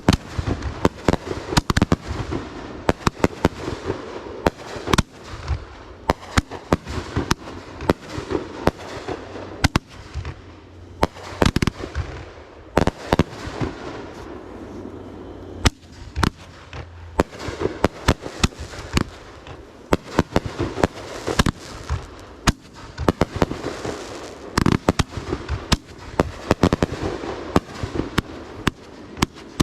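Fireworks going off one after another: many sharp bangs at irregular intervals, several a second at times, with crackling in between.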